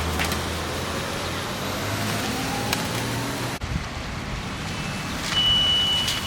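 Road traffic noise from passing vehicles. The sound changes abruptly a little past halfway, and a steady high-pitched tone comes in about five seconds in and holds for over a second.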